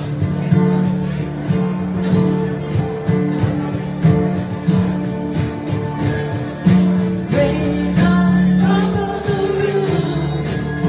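A small group playing a song: strummed guitar over a steady beat, with a voice coming in about seven seconds in.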